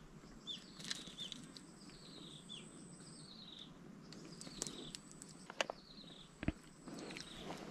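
Small birds calling in a repeated series of short, falling chirps, with a thin high whine that comes and goes. A few sharp clicks and one knock sound about five to six and a half seconds in, as the catch is handled in the wooden boat.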